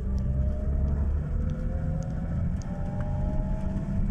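Small classic car running on the road, heard from inside the cabin: a steady low engine drone with a whine that rises slowly in pitch as the car picks up speed.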